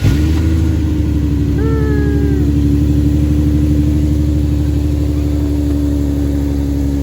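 Car engine running steadily at idle. About a second and a half in, a short pitched tone falls slightly in pitch.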